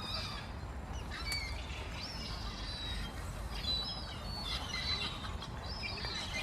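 Birds chirping: many short, high calls overlapping throughout, over a steady low background rumble.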